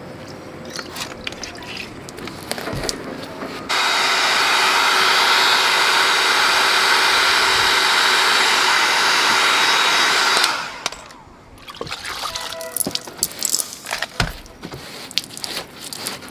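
A powered tool runs with a steady rushing hiss and a faint whine, starting abruptly about four seconds in and cutting off about seven seconds later. Scattered knocks and clatter come before and after it.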